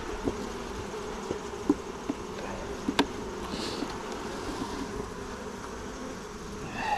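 Honeybees buzzing around an open hive under inspection, a steady drone. A few sharp clicks come through it, and a brief higher-pitched sound swells just before the end.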